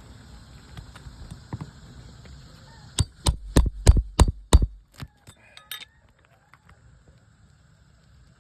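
A hammer striking a nail-pulling roofing tool worked under asphalt shingles to free the roofing nails: six quick, sharp strikes about three a second, followed by a few faint clicks.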